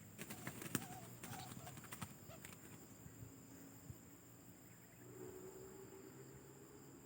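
Spotted dove (tekukur) cooing faintly, a short low call about five seconds in, after a cluster of sharp clicks and rustles in the first two seconds.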